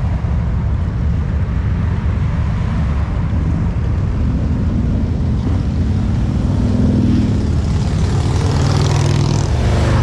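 Several motorcycle engines running together in heavy street traffic, a dense low rumble that grows a little louder in the second half.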